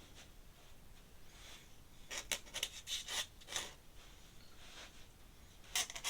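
Metal pen nib scratching across paper in short, quick ink strokes: a run of about five in the middle and another cluster near the end.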